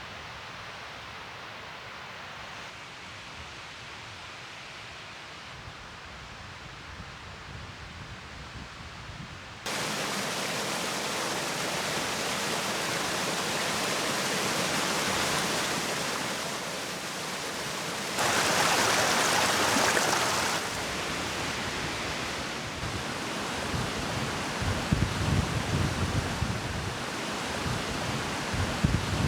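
Small mountain stream rushing over rocks, a steady wash of running water. It jumps suddenly louder about ten seconds in and swells again for a couple of seconds midway, with low uneven bumps near the end.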